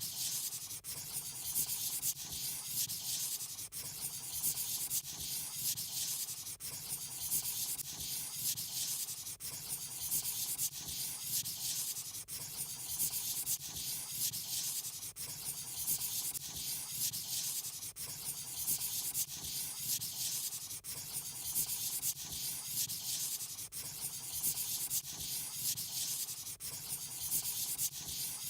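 Pen or marker scratching on paper in quick repeated strokes, as in drawing and colouring in.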